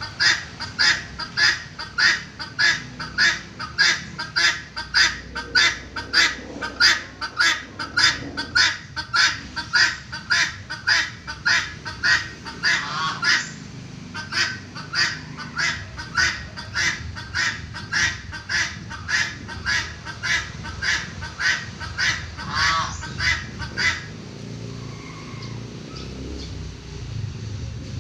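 Peafowl giving a long series of short, loud honking calls, a little under two a second, with a brief pause about halfway through; the calling stops about four seconds before the end.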